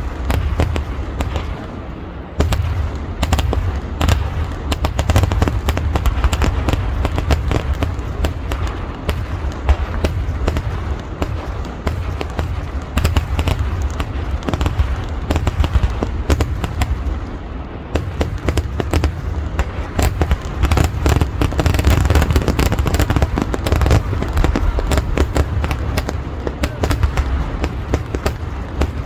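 Fireworks barrage: a dense, continuous run of overlapping firecracker bangs over a deep, steady rumble. It eases briefly about two seconds in and again a little past halfway, then thickens again around twenty seconds.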